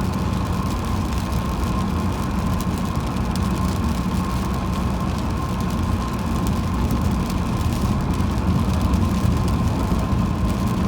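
Car driving on a wet highway: steady engine and tyre rumble with a constant high hum, and faint scattered ticks.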